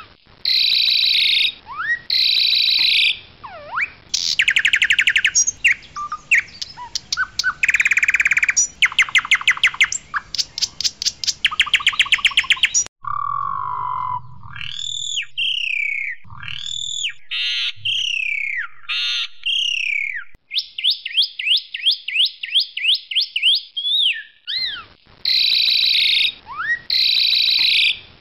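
Pied myna (jalak suren putih) singing loudly. It gives fast rattling trills and strings of sharp repeated notes. About halfway through comes a stretch of clear whistles that glide up and down, and after that the rattling trills return.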